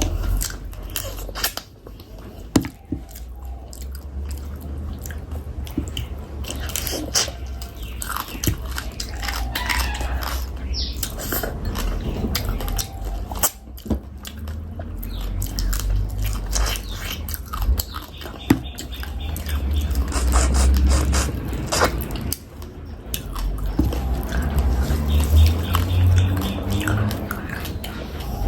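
Close-miked chewing and biting of a meal of fish curry and rice, with many short clicks and occasional crisp crunches.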